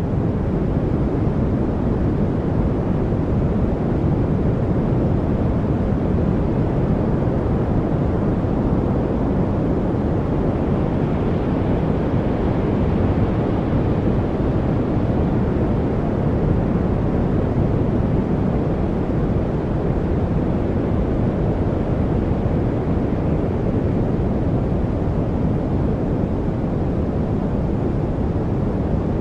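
Steady, deep background noise, heaviest in the low end: a white-noise-style masking track with no chirps, ticks or changes.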